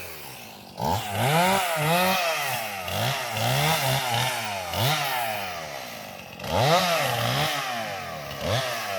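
Chainsaw engine revving up and dropping back over and over, about once a second, as it cuts through limbs of a felled conifer.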